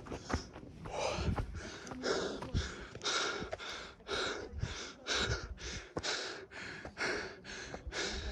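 A person panting hard while climbing a steep slope, breathing in and out about twice a second.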